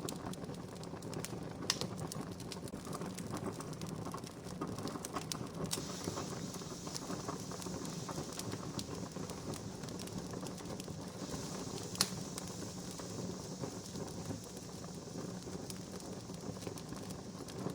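Wood campfire crackling: a steady hiss and low rumble of burning with scattered sharp pops, a louder pop about two seconds in and another about twelve seconds in.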